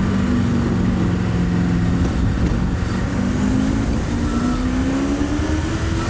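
Turbocharged V8 of a TVR Chimaera accelerating hard on high boost, its note dipping slightly and then climbing steadily through the revs. A faint high whine rises over the last couple of seconds.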